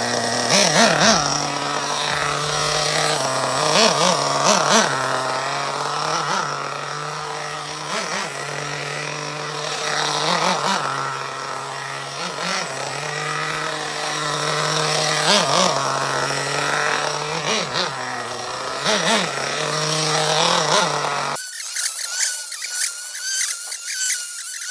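O.S. Max .30 VG(P) two-stroke nitro engine in an RC buggy running at light throttle during break-in, on a very rich tune; its pitch rises and falls every few seconds as the buggy is driven around. About three seconds before the end the sound changes abruptly to a thinner, higher-pitched engine whine.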